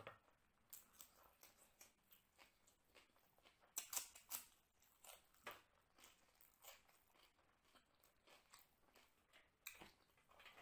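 Faint close-up crunching and chewing of a crisp raw vegetable slice from the salad plate, with a dense cluster of crunches about four seconds in and another near the end.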